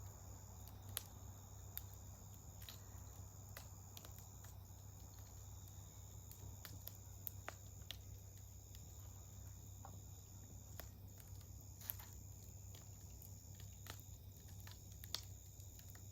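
Faint wood fire crackling, with sharp irregular pops a few seconds apart, over a steady high-pitched insect drone.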